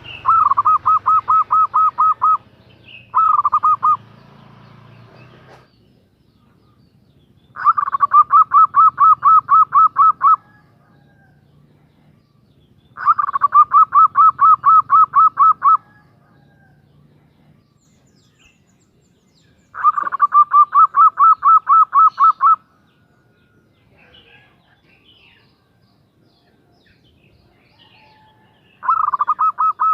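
Female zebra dove (perkutut) calling to a male: bursts of rapid, evenly repeated cooing notes, about five a second. Each burst lasts two to three seconds, and six come with pauses between them.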